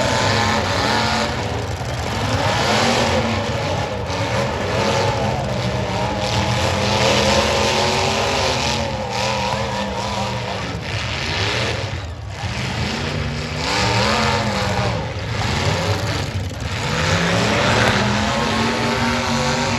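Demolition derby cars' engines revving hard, rising and falling in pitch over and over as the cars accelerate and back off, with more than one engine running at once.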